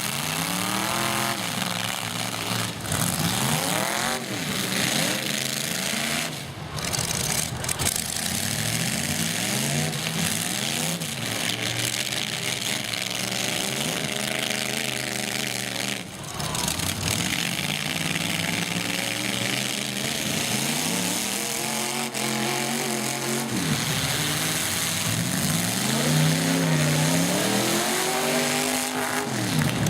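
Several demolition-derby truck engines revving up and down over and over, with a few sharp crashes of trucks colliding.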